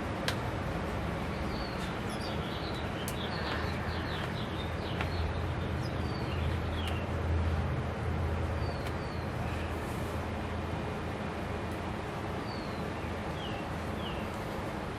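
Small birds chirping, with short downward-sliding calls scattered throughout, over a steady low hum.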